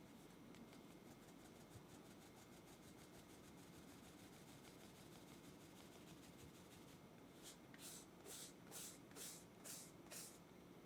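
Quiet kitchen prep sounds while making a sponge batter: fast, faint rubbing strokes, then about seven louder hissing strokes about half a second apart, starting about seven seconds in.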